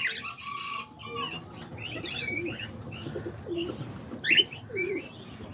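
Cockatiels and other small aviary birds calling. A steady whistle-like tone is held for about the first second, followed by scattered short chirps and several low cooing calls.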